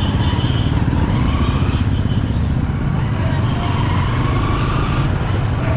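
Bajaj Pulsar 200 motorcycle's single-cylinder engine running steadily while riding, with faint street sounds over it.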